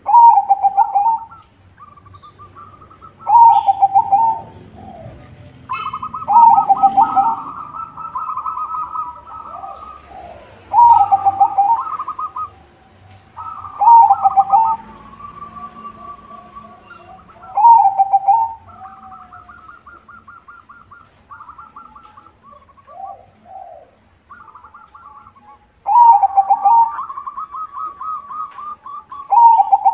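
White zebra dove (perkutut putih) singing its rhythmic cooing song: loud phrases of quick pulsed coos repeat every three to four seconds, with softer coos between them. A quieter stretch comes in the last third before the loud phrases resume.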